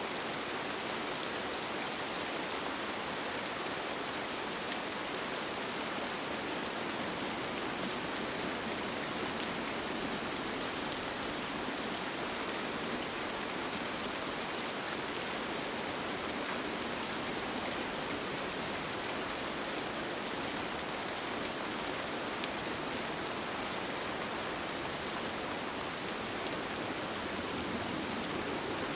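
Steady rain falling on a tent, heard from inside, with single drops ticking now and then.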